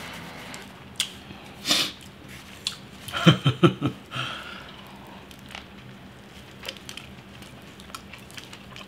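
Close-up mouth sounds of a person chewing a bite of a Subway sub sandwich, with wet smacks and short clicks that are busiest about three to four seconds in.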